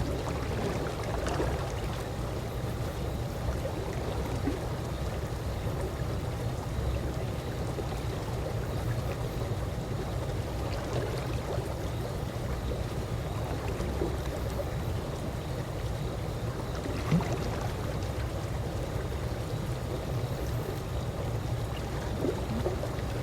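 Calm swimming-pool water lapping and gently gurgling, a steady low wash of noise with small scattered drips and splashes.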